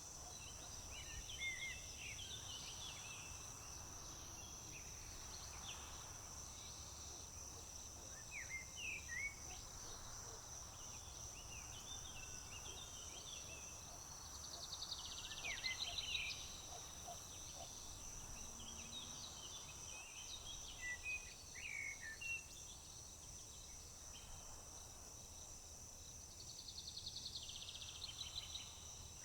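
Crickets or similar insects making a steady high-pitched drone, with songbirds singing short phrases every few seconds over it. Fast trills come around the middle and again near the end.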